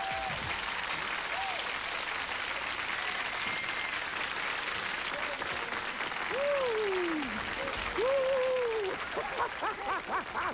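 Studio audience applauding at the end of a song, with shouts of cheering rising and falling over the clapping from about six seconds in.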